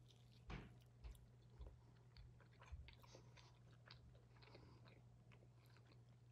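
Faint bite and chewing sounds of someone eating a baked crispy chicken drumstick: a few soft crunches about half a second apart in the first three seconds, the first the strongest, then quieter chewing.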